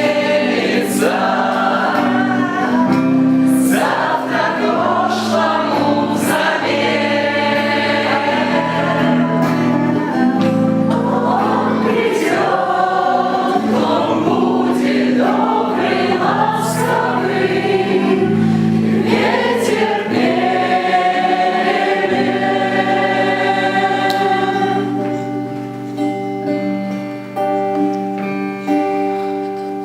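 Music: a choir singing over instrumental accompaniment. About two-thirds of the way through the voices stop, leaving held chords that fade out near the end.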